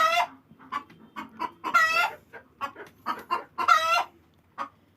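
Chickens clucking with many short calls. Two louder, drawn-out calls come about two and four seconds in.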